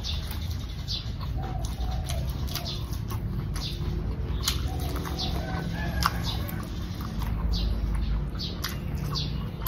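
Close-up chewing of a mouthful of pak wan fruits (Melientha suavis berries) with sticky rice: small crunching clicks about twice a second.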